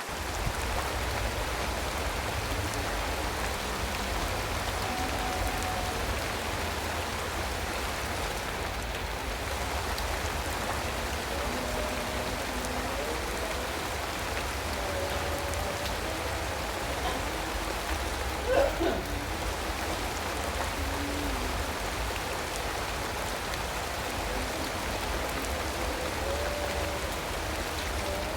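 Steady rain falling, an even hiss of drops. Faint wavering pitched lines of a distant voice come and go underneath, and a short sharp sound stands out about two-thirds of the way through.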